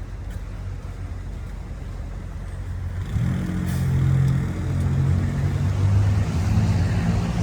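Street traffic: a heavy motor vehicle's engine running nearby, a low hum that grows louder about three seconds in.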